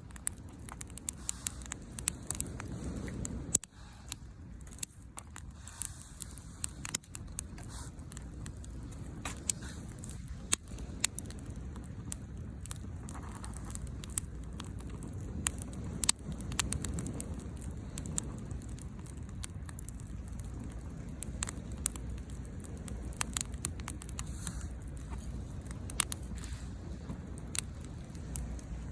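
Softwood firewood burning in a Picogrill fire pit, crackling with many sharp irregular pops. A low steady rumble runs underneath.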